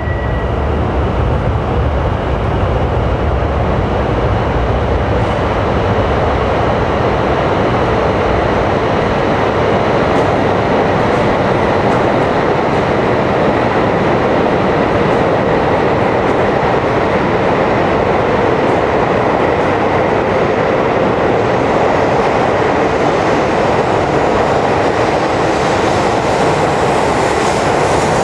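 Coupled E5 series and E3 series Shinkansen train running along the platform: a loud, steady rumble of wheels on rail and running gear.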